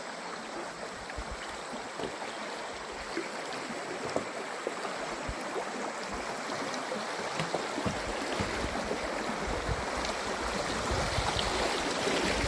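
Water flowing steadily with many small splashes and gurgles, getting a little louder and deeper-sounding in the second half.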